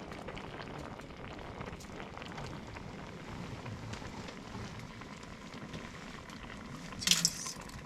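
Campfire cooking: a steady crackling and sizzling hiss with many small pops. A brief louder scrape or clink comes near the end.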